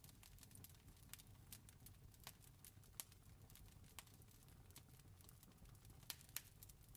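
Faint wood fire crackling, with irregular sharp pops and snaps. The loudest come about three seconds in and twice just after six seconds, over a steady low rumble.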